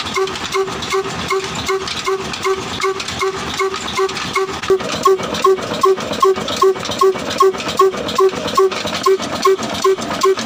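Mini single-cylinder stationary diesel engine running steadily, belt-driving a small water pump, with an even beat of about three pulses a second. The beats grow louder about halfway through.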